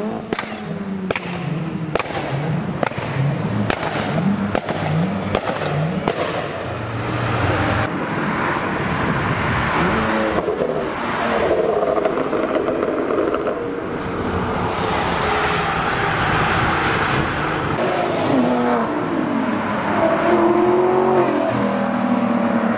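Several tuned performance cars driving by one after another, engines revving. In the first few seconds there is a quick series of short throttle blips with sharp exhaust pops. Later, other cars accelerate past with their engine notes rising and falling through the gears.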